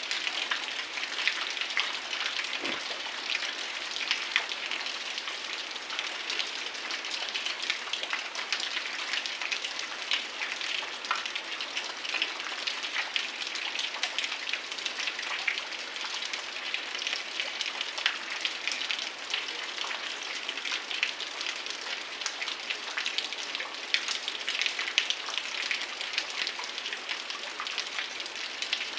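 Heavy rain falling steadily: a dense, even hiss full of many close, separate drop ticks.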